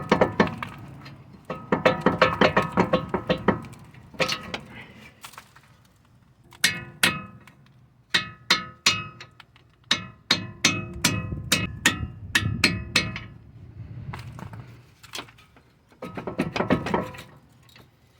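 Hammer striking a steel tool set against the end of the CV axle, driving the axle out of the front hub. Ringing metal blows: a quick run of strikes about two seconds in, single blows at about two to three a second through the middle, and another quick run near the end.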